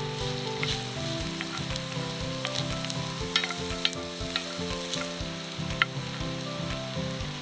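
Food sizzling as it fries in a pan, with sharp scrapes and clicks from stirring. Soft background music with a stepping melody plays underneath.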